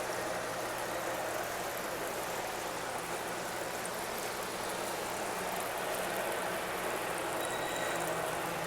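Small garden fountain splashing, a steady hiss of falling water, with a faint low hum beneath it.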